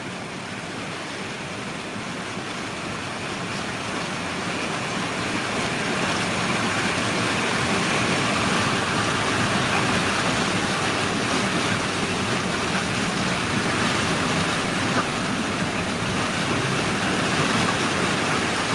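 A car driving through deep floodwater: a steady rush of water around the car that grows louder over the first several seconds and then holds.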